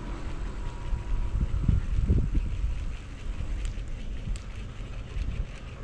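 Wind buffeting the microphone in low rumbling gusts, strongest about a third of the way in, with faint scattered ticks near the end.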